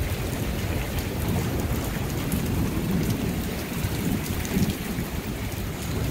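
Thunderstorm downpour: heavy rain hissing steadily, with gusting wind making an uneven low rumble on the microphone.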